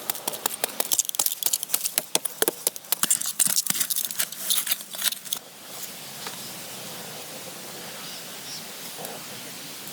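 Wood fire crackling with dense, rapid snaps for about five and a half seconds. It then cuts off suddenly to a steady soft hiss.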